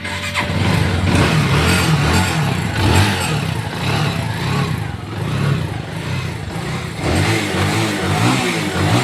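Bajaj Avenger Cruise 220's single-cylinder engine running after being reassembled, revved up and down repeatedly with the throttle, with the blips getting stronger near the end.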